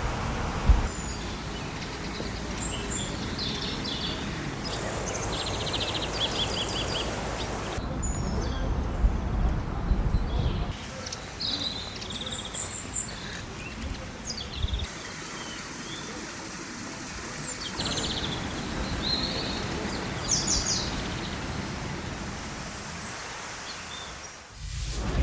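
Small birds chirping and singing short trills over a steady outdoor background hiss, with low rumbles in places; the background changes abruptly several times.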